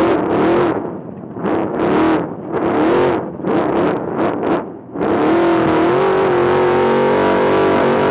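Off-road race trophy truck engine revving hard, with the throttle going on and off in surges about once a second. About five seconds in it changes abruptly to a steady high-revving drone at speed, with a rushing hiss.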